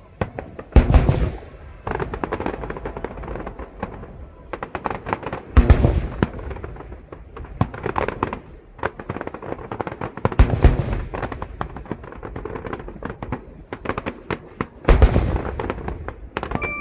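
Aerial fireworks display: four large shells burst with deep booms about every five seconds, with dense crackling and popping between them.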